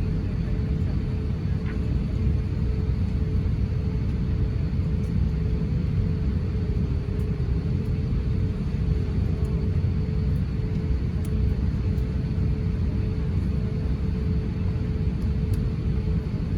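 Airbus A350-900 passenger cabin noise: the steady low rumble of its Rolls-Royce Trent XWB engines and airflow, with a constant hum running through it.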